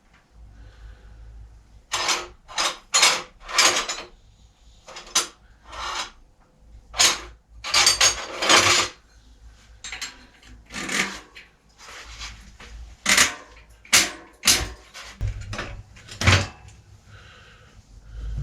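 Bicycle-workshop handling noises: about a dozen short, irregular clatters and scrapes of tools and parts being worked, with brief pauses between.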